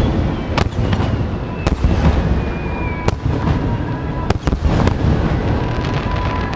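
Aerial fireworks display: shells bursting in about five sharp bangs over a continuous low rumble of distant bursts and crackle.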